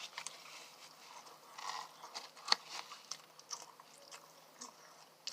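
Close-up eating sounds of a person chewing and biting fast food, with scattered wet mouth clicks and a sharp crunch about two and a half seconds in.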